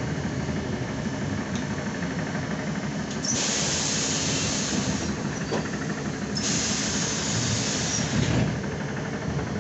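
ZiU-9 trolleybus's compressed-air system letting out two hisses, each about two seconds long, each starting and stopping abruptly. Under them runs the bus's steady low rumble.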